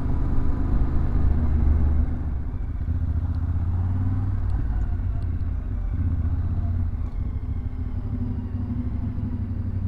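Yamaha Ténéré 700 motorcycle's parallel-twin engine running steadily under way, a low rumble over road and wind noise.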